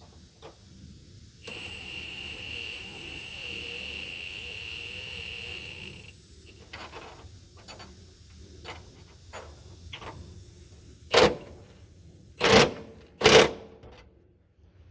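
Power tool motor running with a steady high whine for about four and a half seconds, then scattered small clicks of tools and three loud sharp knocks near the end.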